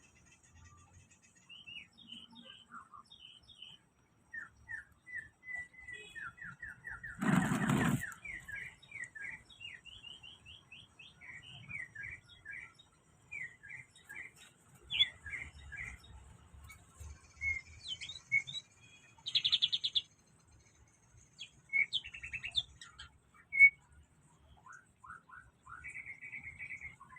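A kept songbird singing: varied runs of short, quick chirps and whistled notes, with a dense buzzy phrase about twenty seconds in. A loud harsh burst about seven seconds in is the loudest sound.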